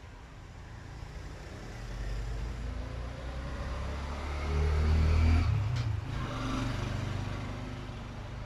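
A motor vehicle engine: a low rumble that grows louder to a peak about five seconds in, then dies away.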